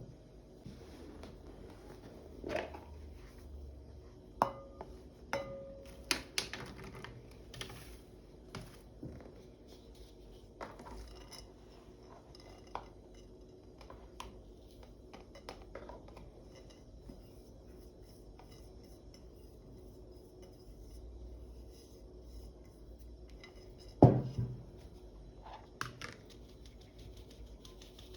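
Dishes and kitchenware being handled: scattered clinks and knocks of utensils and pots, with a louder clatter near the end, over a low steady hum.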